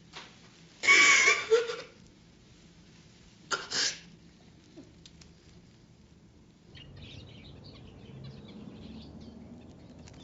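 A person sobbing, two short, sharp bursts of crying, the first about a second in and a shorter one a couple of seconds later.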